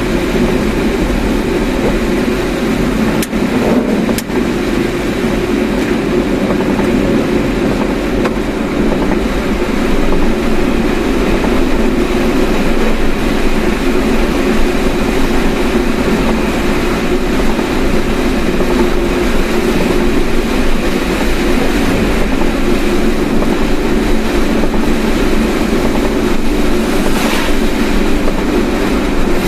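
A car driving along, its road and engine noise a steady rumble, with two brief clicks about three and four seconds in.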